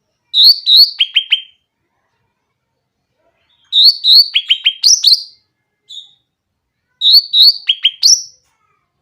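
A cucak ranting singing three short, loud, clear phrases of quick chirps a few seconds apart, each a run of rising notes followed by a fast trill of falling notes.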